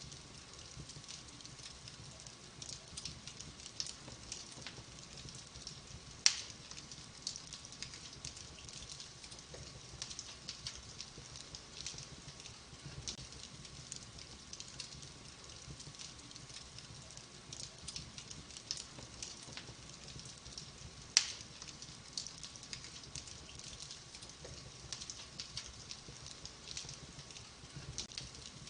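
Wood fire burning in a fireplace: a steady hiss with scattered small crackles, and two loud sharp pops about six seconds and twenty-one seconds in.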